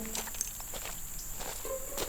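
A steady high-pitched insect drone, with a few faint clicks and scuffs that are likely footsteps.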